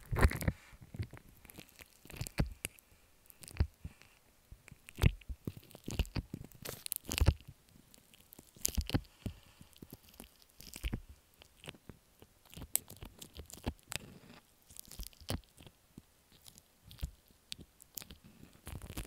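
Slime being squished and worked right at an earphone microphone: irregular sticky clicks, crackles and small squelches, with scattered louder pops.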